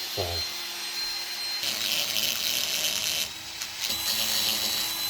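Rotary tool with a burr bit grinding away aluminium weld: a steady high motor whine, with two stretches of heavier, grittier cutting as the burr bites into the metal.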